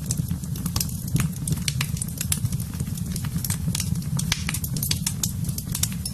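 Wood fire in a fireplace burning, with many sharp irregular crackles and pops over a steady low rumble.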